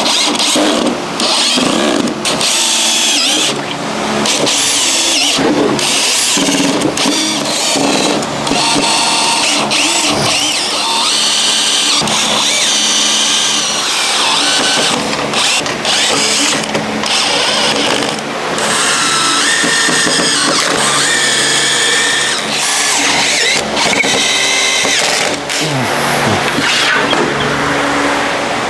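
Power tools running in spells, with brief pauses between.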